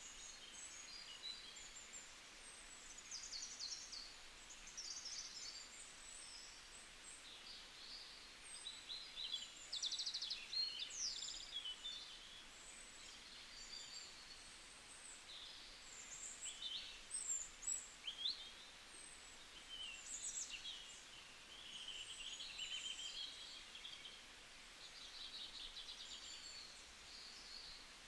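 Birds chirping and calling: many short, high-pitched chirps, trills and quick slurred notes, some overlapping, over a faint background hiss.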